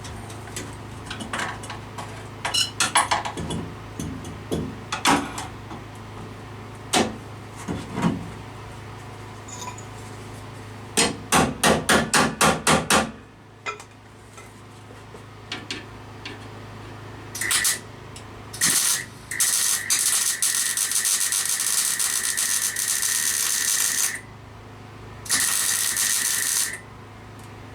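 Metal bodywork on a car shell: scattered knocks and taps, then a fast, even run of about ten hammer blows. After that come several bursts of a power tool working on steel, two short and then one of about four seconds, with a steady hum underneath.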